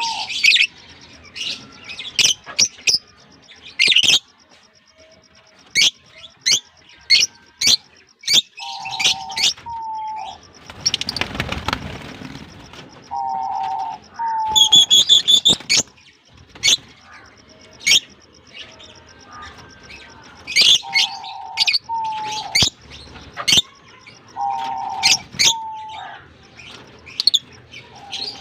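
Fischer's and blue masked lovebirds chirping: quick runs of short, sharp, high chirps and squeaks, with a lower two-part call coming back every four seconds or so. A brief rustling noise comes about eleven seconds in, and a loud shrill call a few seconds later.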